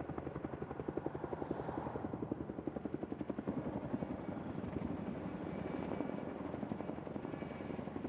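Military helicopter in flight, its rotor blades chopping in a fast, even beat that holds steady.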